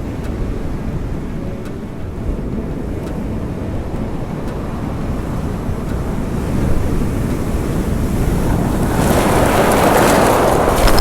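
Black Sea surf rumbling against the shore, with wind buffeting the microphone. About nine seconds in, a wave breaks and washes in louder.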